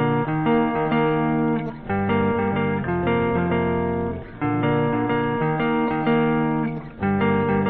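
Guitar music with plucked and strummed notes, in phrases that pause briefly every couple of seconds.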